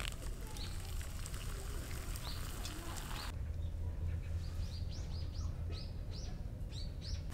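Small birds chirping in a quick series of short, high calls, about four a second, that crowd together in the second half. Beneath them is a steady low rumble, and a hiss that cuts off abruptly about three seconds in.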